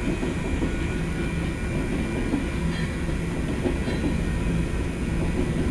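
BNSF freight train rolling past, its cars and wheels on the rails making a steady low rumble.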